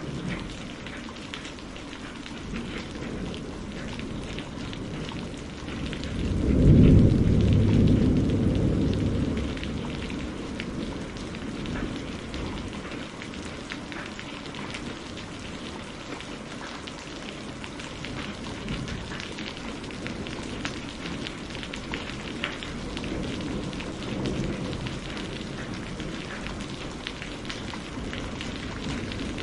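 Steady rain falling, with a roll of thunder about six seconds in that swells and fades over some four seconds, and a fainter low rumble later on.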